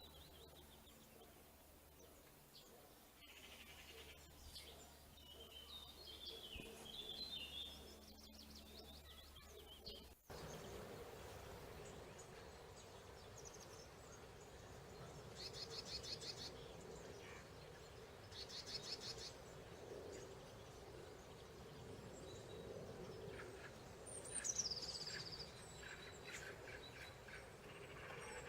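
Faint calls of small birds: scattered high chirps, then after an abrupt cut about ten seconds in, two short rapid trills and a louder falling call near the end, over a low steady background hum.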